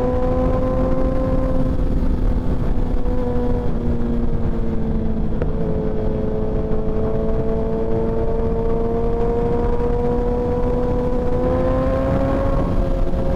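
Sport motorcycle engine running at a steady cruising speed under heavy wind rumble; the engine note sags slightly, then rises a little near the end as the rider gives it more throttle.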